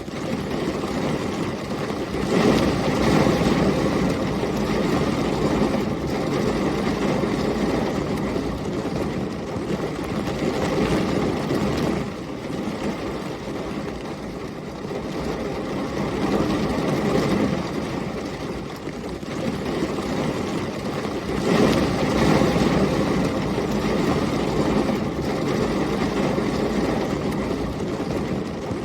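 Thunderstorm ambience: heavy rain and storm wind as a steady rushing noise, swelling suddenly louder twice, about two seconds in and again about three-quarters of the way through, each swell fading over several seconds.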